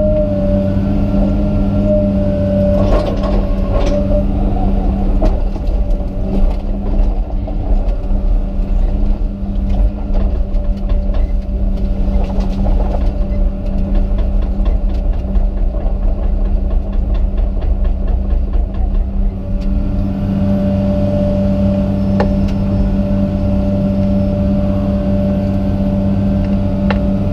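Komatsu PC200 excavator's diesel engine running steadily under working load, with a higher steady whine that drops out for about fifteen seconds in the middle and then comes back, and a few scattered cracks or knocks.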